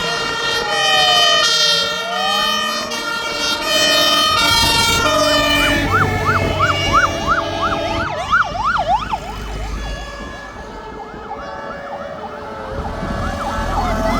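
Several fire engine sirens sounding at once as a convoy passes: slow rising-and-falling wails and alternating two-tone tones, with one siren switching to a fast yelp about a third of the way in. Heavy vehicle engine rumble runs underneath, louder in the middle and again near the end.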